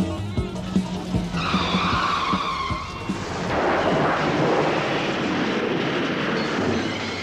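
The band music breaks off into a screech like tyres squealing, starting about a second in, followed by a long noisy rush that slowly fades, a car-skid sound effect on a vintage pop record.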